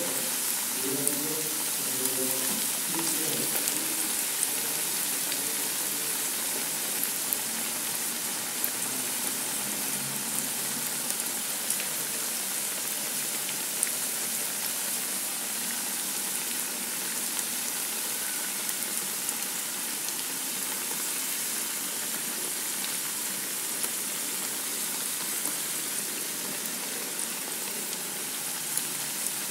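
Tempe fritters coated in shredded wonton-skin strips deep-frying in hot oil: a steady sizzle with scattered small pops. They have been turned and the second side is browning.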